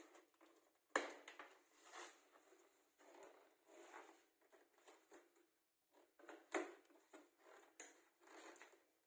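Packaging being handled: faint, irregular rustling and crinkling with scattered knocks, the sharpest about a second in.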